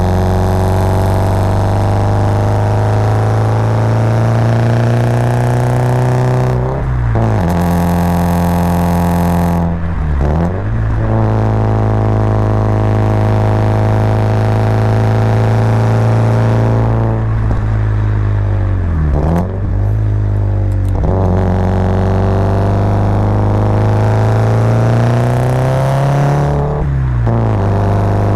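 Subaru Impreza WRX's turbocharged boxer flat-four engine pulling under load on an uphill drive, heard from inside the car. The engine note rises and falls, with about five breaks and pitch changes as the driver shifts gears on the five-speed manual.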